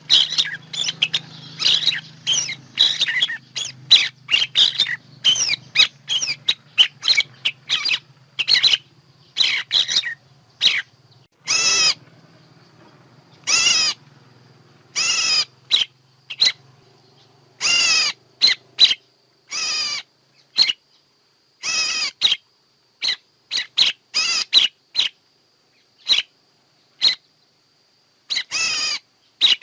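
Birds chirping and calling, a recording made for luring birds into traps. For the first ten seconds or so it is a dense run of quick chirps. After that come spaced harsh calls of about half a second each, mixed with short chirps, over a faint steady high tone.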